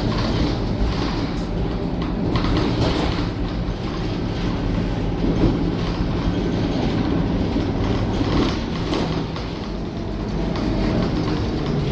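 Scania K230UB city bus on the move: a steady diesel engine drone with road and body rumble and small rattles, easing a little about nine seconds in before picking up again.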